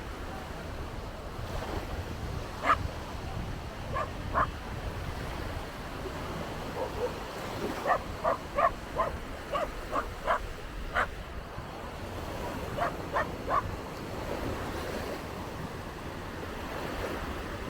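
Surf and wind buffeting the microphone, with a dog barking in short runs of quick, high yaps, about fifteen in all, across the middle of the stretch.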